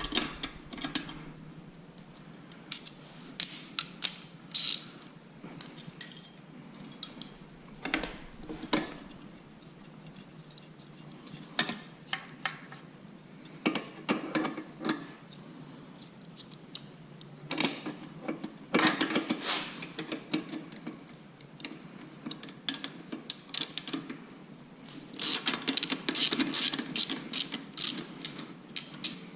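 Intermittent metallic clicks and clinks of hand tools and metal parts being handled, in short irregular clusters that come thicker near the end.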